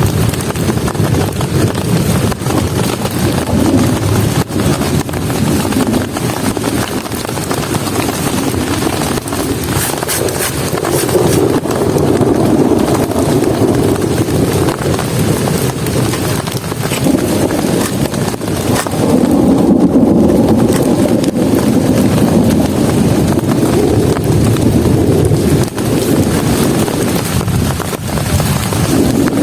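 Heavy rain falling steadily and drumming on a camp shelter in a dense, deep rush, swelling louder a few times.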